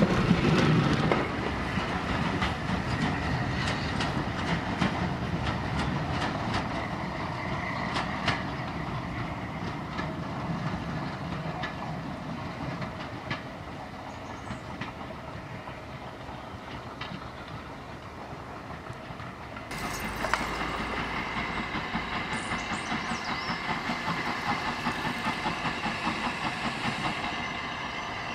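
Heritage railway carriages rolling past close by, their wheels clicking over the rail joints, the sound fading as the train draws away. About two-thirds of the way through it changes abruptly to a train approaching in the distance with a regular pulsing beat.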